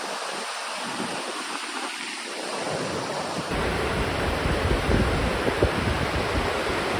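Wind blowing across the microphone outdoors, a steady hiss with a gusting low rumble that starts abruptly about halfway through.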